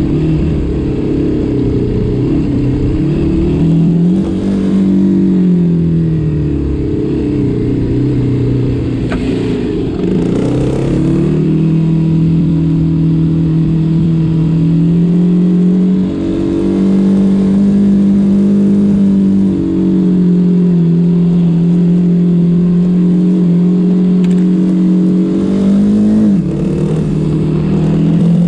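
Engine of a small ridden vehicle running under load, with its note changing as the throttle changes. The pitch drops about five seconds in, climbs again around eleven seconds, holds steady for a long stretch, then briefly rises and falls near the end.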